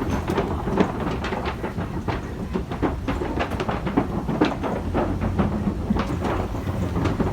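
Safari truck rattling and clattering across a wobbly wooden bridge. A fast, irregular run of knocks and creaks sits over the low rumble of the truck.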